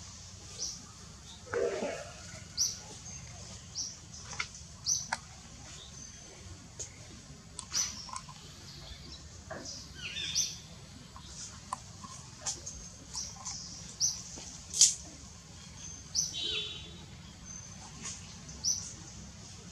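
Small birds chirping: short, high chirps repeated every second or so at irregular intervals, over a steady low hum, with one brief lower call about two seconds in.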